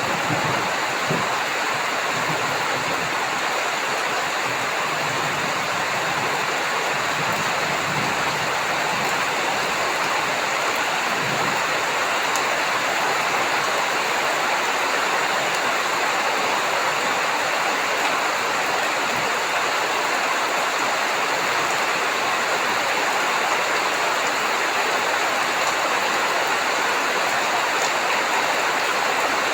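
Heavy rain falling in a steady hiss, with a low thunder rumble dying away over roughly the first ten seconds.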